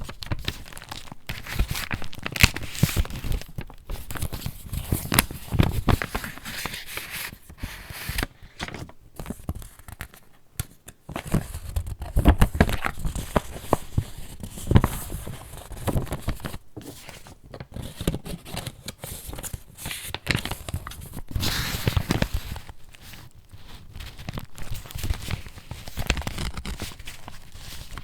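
Pages of a handmade paper junk journal being turned and handled: irregular crisp rustling and crinkling of paper, with many sharp crackles.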